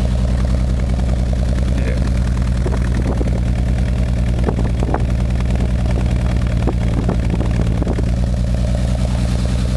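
BMW M20 2.5-litre straight-six idling roughly, with a steady pulsing stumble in its running. The misfire comes from a broken intake-valve rocker arm on cylinder 2.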